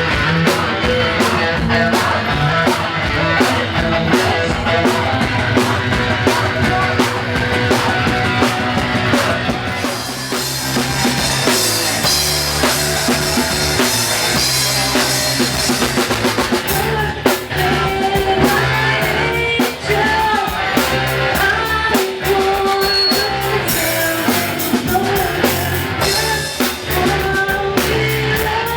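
Rock music played on drum kit and electric guitar, loud and steady, with a brighter cymbal wash starting about a third of the way in.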